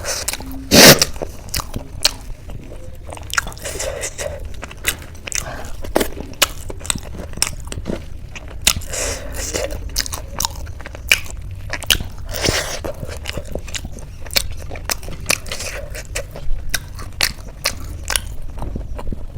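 Close-miked biting and crunchy chewing of Indian street snacks, a dense run of crackly crunches. The loudest bite comes about a second in.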